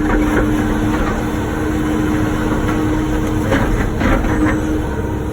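Wacker Neuson ET145 excavator's diesel engine running steadily, with a cluster of short knocks or scrapes a little past the middle.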